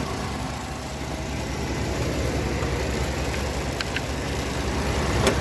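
1989 Chevy S10 Blazer's 4.3 V6 with throttle-body injection idling steadily, an idle the owner calls fine now that a known-good TBI unit is fitted. A couple of light clicks about four seconds in, and a few sharp knocks near the end.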